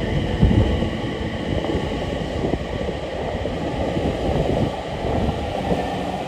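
JR East electric commuter train pulling away from the platform, its cars rolling past close by with a steady low rumble of wheels on rail and irregular clunks.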